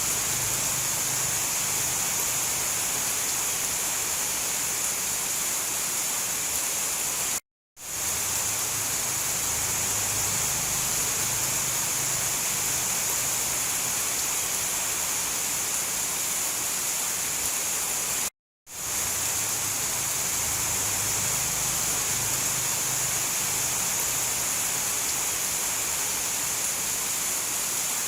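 Steady heavy rain, an even hiss. It cuts out to silence twice for a split second and fades straight back in.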